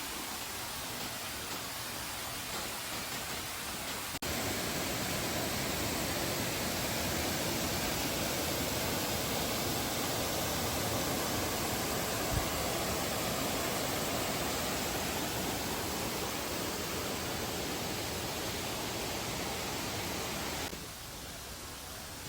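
Waterfall, a steady rush of falling water. It jumps louder about four seconds in and drops back near the end.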